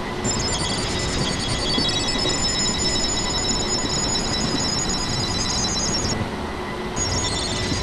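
Train rolling past with a steady rumble and a high-pitched multi-tone squeal from the wheels on the curve; the squeal cuts out about six seconds in and returns a second later.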